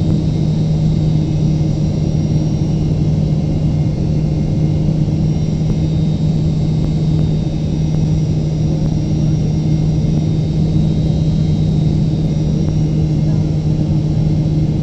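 Steady drone of a Boeing 777-300ER's GE90 engines and airflow heard inside the passenger cabin: a constant low hum with a faint high whine above it.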